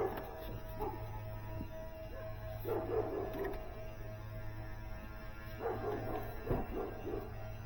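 Smoke-test machine running with a steady low hum while a dog yips and whines in two short bouts, about three seconds in and again about six seconds in.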